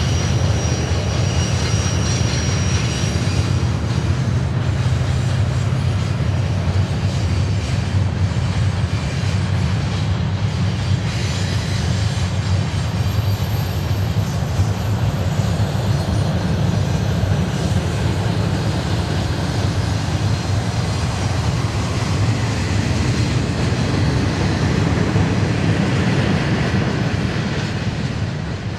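BNSF double-stack intermodal container train rolling past: a steady, loud rumble of freight cars on the rails, with a faint high wheel squeal in the first few seconds.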